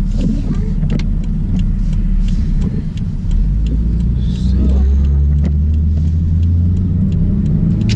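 A car driving, with a steady low rumble of engine and road noise that grows louder about four to five seconds in. Faint regular ticks come about twice a second.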